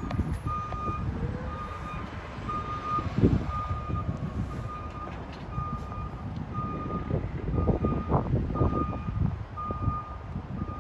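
A fire truck's back-up alarm beeps at an even pace, roughly once a second, over the low rumble of the truck's engine and some wind noise.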